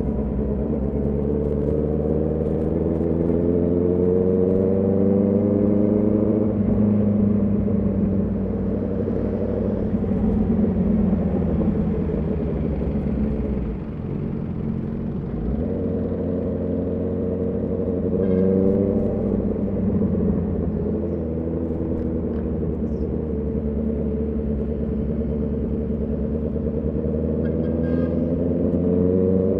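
Honda CB650R's inline-four engine and exhaust under way, the pitch climbing as the bike accelerates over the first few seconds, easing off around the middle, then rising again about two-thirds in and once more near the end.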